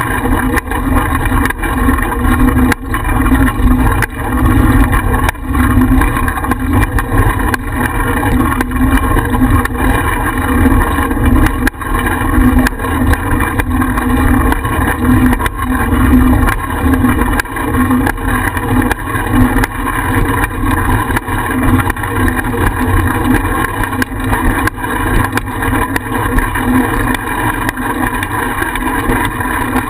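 Steady rumble and wind noise on the microphone of a GoPro mounted on a moving bicycle, with short clicks and rattles running through it.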